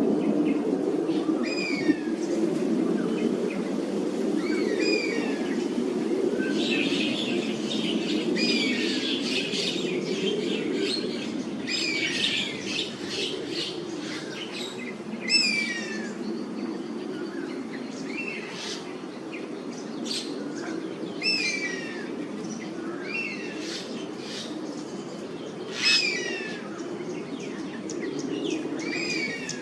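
Oriental honey buzzards giving repeated high calls, each a short downward-sliding note, one every second or two, with a busier stretch of overlapping calls in the first half. These are protest calls at intruders near the roost. A steady low background noise runs underneath.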